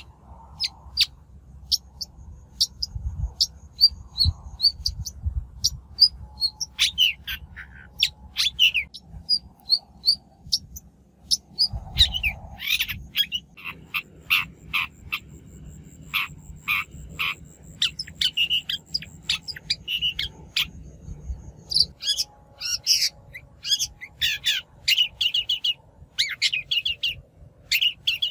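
Shrike calls: a quick run of short, sharp chattering notes and harsh chirps, busier in the second half, with a faint thin high whistle in the middle.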